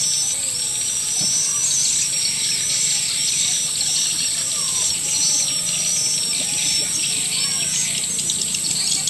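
Recorded swiftlet calls: a dense stream of many short, overlapping high chirps and twitters, over a steady high-pitched hiss. This is a lure call track ("akau sedot senja" mixed with a mating call), played to draw swiftlets in to nest.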